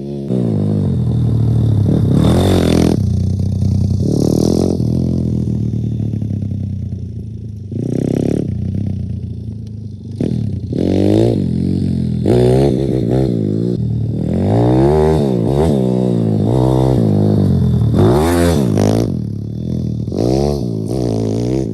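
A YCF pit bike's engine being ridden hard on a dirt track, its pitch rising and falling again and again as the throttle is opened and closed, with quicker swings in the second half.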